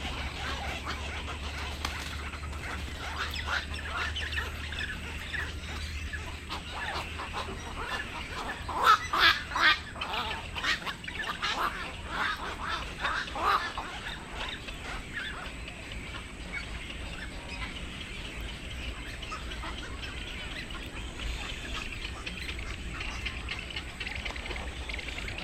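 Black-crowned night heron giving harsh, quacking calls in a run of several, about nine to fourteen seconds in, the loudest near the start of the run, over a steady low rumble.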